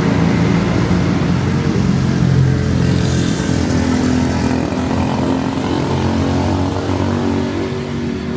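A motor vehicle's engine running close by, a steady hum whose pitch shifts a little as it goes.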